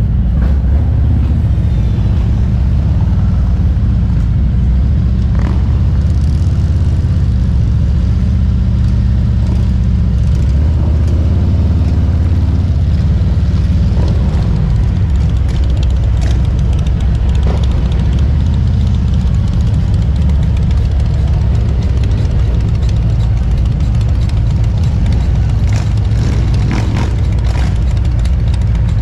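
Motorcycle engine running steadily, a loud continuous low rumble.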